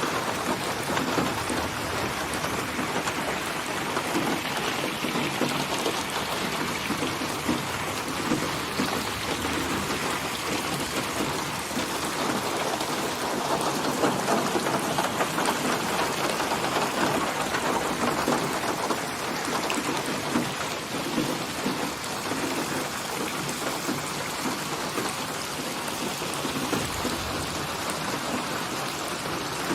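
Steady heavy rain falling, a dense even hiss of drops that swells a little louder midway through.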